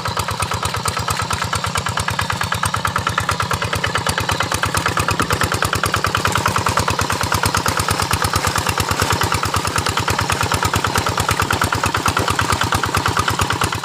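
Small engine running steadily with an even, quick chugging pulse of about seven beats a second.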